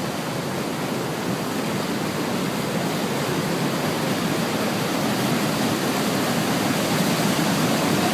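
Niagara Falls: the steady, dense rush of falling water, growing slightly louder toward the end.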